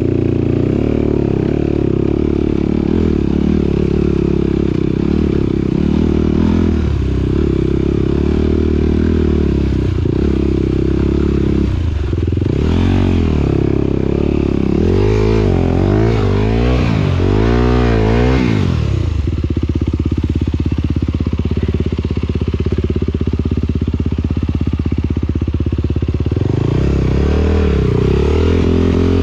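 Motocross bike engine running and revving up and down repeatedly, with a steadier stretch of even running past the middle.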